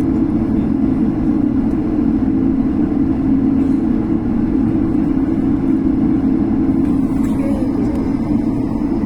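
Airliner jet engines running, a loud, even rumble with a steady deep drone.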